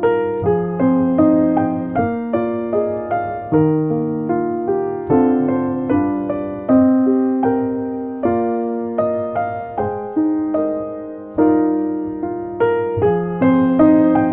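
Background piano music: a gentle melody of struck notes, each dying away, in an even rhythm.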